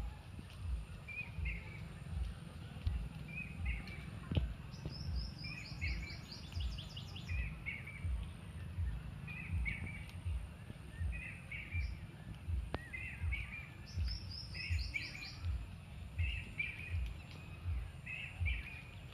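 Birds calling outdoors: one bird repeats a short call about every second and a half, and another gives a quick run of high notes twice. Low, uneven thumping runs underneath throughout.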